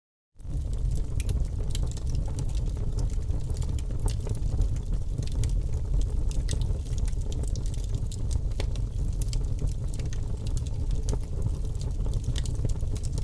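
Wood fire crackling in a fireplace: a steady low rumble of burning with frequent sharp, irregular pops and snaps from the logs. The sound drops out completely for a moment at the very start, then comes back.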